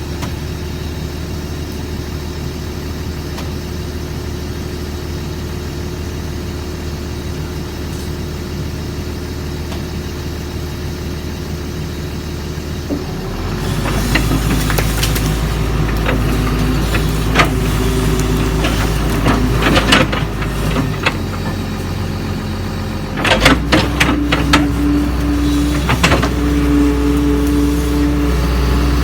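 Doosan DX140 excavator's diesel engine running steadily, then about halfway through growing louder under load, with steady whining tones and a series of sharp knocks and clatter from the working machine.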